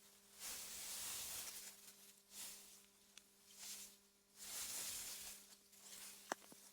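Wind gusting through meadow grass: a faint, airy hiss that swells and dies away in several gusts, over a steady low hum. A single sharp click sounds about six seconds in.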